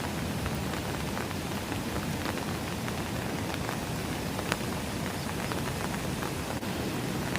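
Steady rain falling, with many separate drops ticking on nearby surfaces; one sharper drop about four and a half seconds in.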